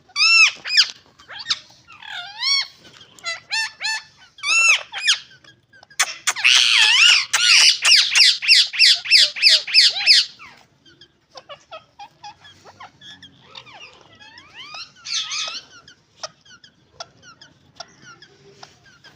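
Ringneck parakeets calling: short arched squawks in quick series, then a loud run of rapidly repeated calls from about six to ten seconds in, followed by quieter clicks and soft chatter.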